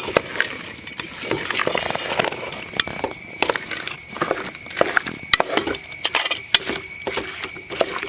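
A spatula stirring fried chicken pieces through a thick sauce in a pan, with irregular scrapes and clicks against the pan, over a faint steady high whine.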